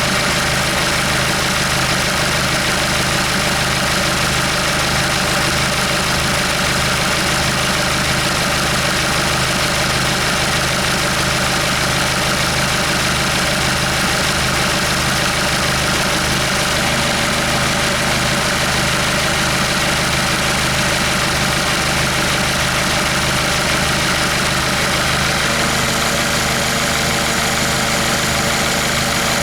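Hyundai D4CB 2.5-litre four-cylinder diesel engine idling steadily, with an even clatter.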